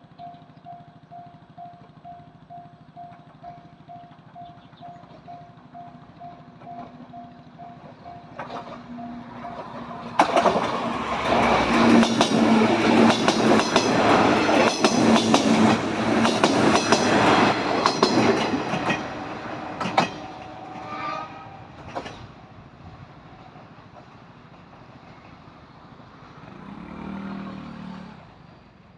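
Level crossing bell ringing, about one and a half strikes a second. About ten seconds in, a four-car Series 105 electric train passes the crossing loudly, its wheels clacking over the rail joints for about ten seconds before it fades away.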